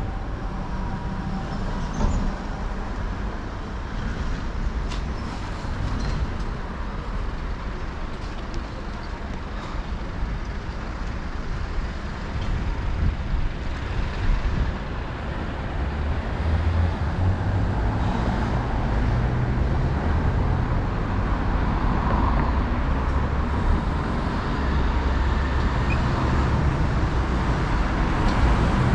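City road traffic: motor vehicles passing, with a low engine rumble that grows louder in the second half.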